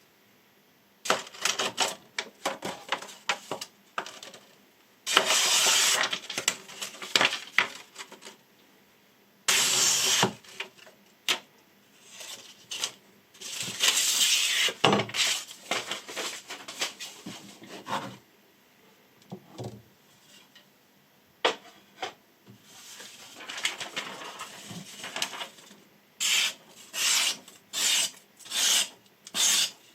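Chef knife blade making repeated rasping cutting strokes, some long and some short. Near the end come about five even strokes in a steady rhythm, less than a second apart.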